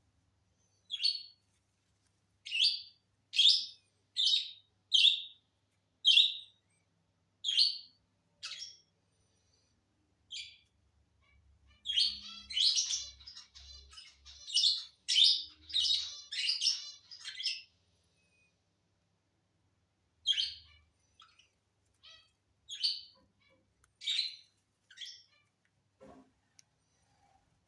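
Lovebirds calling: short, shrill chirps about once a second, with a busy stretch of overlapping chirps in the middle, then a pause and a few more calls.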